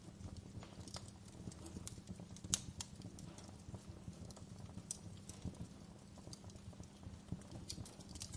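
Wood fire burning in a fireplace, crackling and popping irregularly over a steady low rumble of flames, with one sharper pop about two and a half seconds in.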